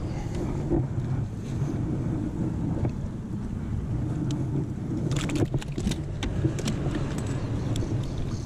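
Steady low rumble of traffic crossing the bridge overhead, with a short cluster of sharp clicks and rattles about five to seven seconds in.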